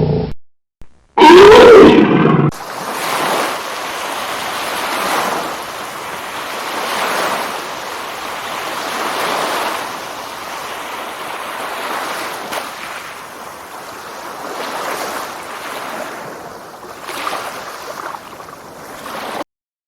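A short loud pitched call with a rising-then-falling contour about a second in, then a steady rushing noise of surf that swells and fades every few seconds before cutting off near the end.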